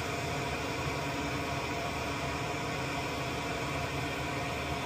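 Steady hum and hiss of a small fan running, with a faint high whine that holds one pitch.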